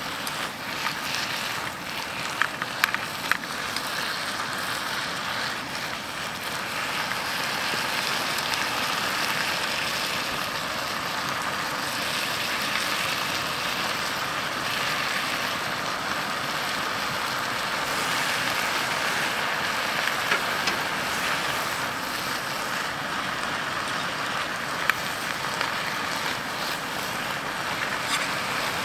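Beef, onions and peppers frying in a pan on a camping gas burner: a steady sizzle with a few sharp pops, getting a little louder about a third of the way in.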